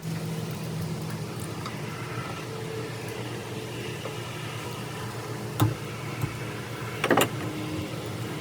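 A steady mechanical hum runs throughout, with two sharp knocks from parts being handled during reassembly of an ATV rear hub: one a little past halfway and a short double knock about a second later.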